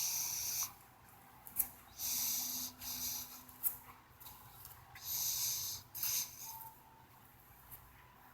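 A person breathing heavily close to the microphone, a rough hissy breath about every three seconds, with a couple of sharp clicks in between.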